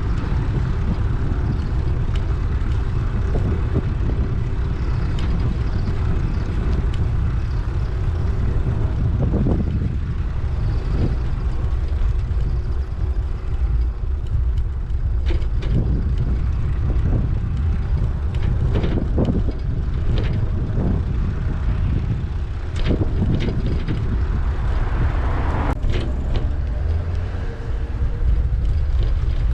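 Steady low wind rumble on an action camera's microphone from a moving bicycle ride, with scattered clicks and rattles.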